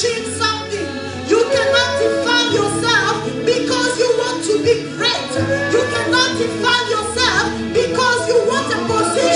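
Live worship music: a woman's voice singing over sustained keyboard chords and a bass line, with light percussion.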